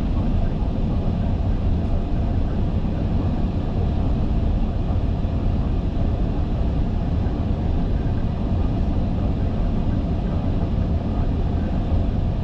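Steady rushing rumble on an Airbus A380's flight deck on approach, mostly low in pitch and unchanging: the airflow and engine noise of the airliner in flight.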